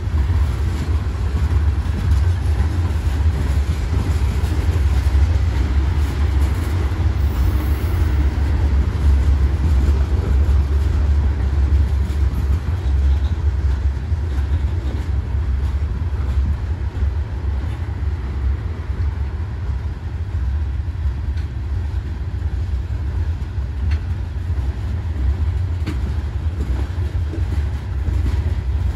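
Herzog rock train's ballast hopper cars rolling past at close range: a steady, loud low rumble of steel wheels on the rails.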